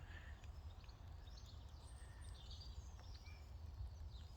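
Faint birdsong, scattered short chirps and twitters, over a steady low rumble.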